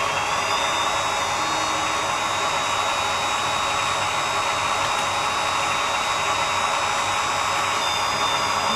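RC model truck's electric hydraulic pump running steadily: a whirring hum with a thin high whine.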